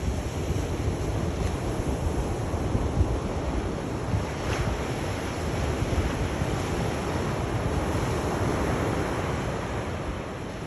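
Sea waves washing on a shore in a continuous rush of surf, with a gentle swell near the end, and wind buffeting the microphone.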